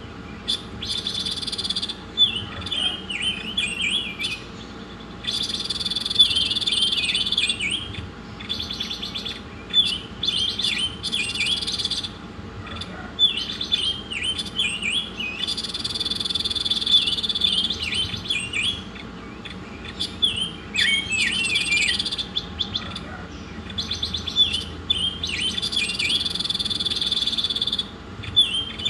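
A songbird singing: clusters of quick, high chirps alternate with long, high trills lasting two to three seconds, and the phrase recurs over and over at a steady level.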